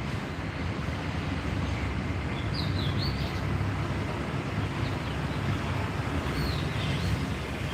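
Steady low rumbling background noise, with a small bird chirping briefly a couple of times, about three seconds in and again near the end.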